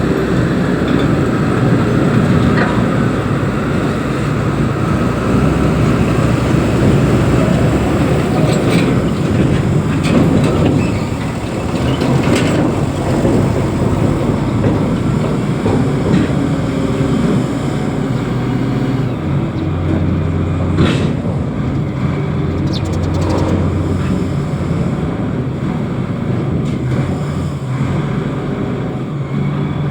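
Reach stacker's diesel engine running steadily while handling an empty 40 ft container, with a few sharp metallic clanks now and then.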